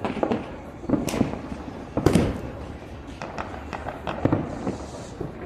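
Fireworks and firecrackers going off: irregular sharp bangs and pops, the loudest about two seconds in.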